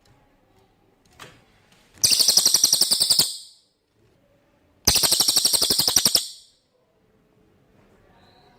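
Cililin songbird singing two fast, high rattling trills of rapidly repeated notes, each about a second and a half long, the first about two seconds in and the second about five seconds in.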